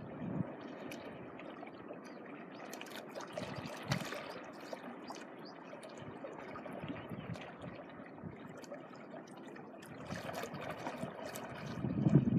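Small waves washing and trickling over a beach shore, with wind buffeting the microphone near the end.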